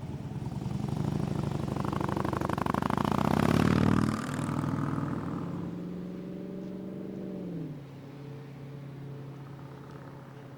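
Car engine and exhaust accelerating past, loudest about four seconds in and then fading. Near the end an engine note drops in pitch and settles into a steady low hum.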